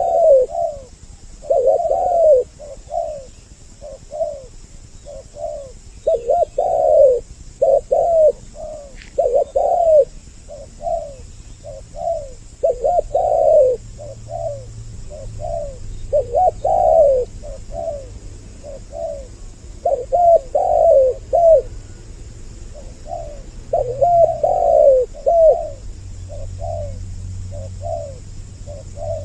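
Spotted doves cooing, two birds calling over each other in a steady run of repeated rising-and-falling coo phrases.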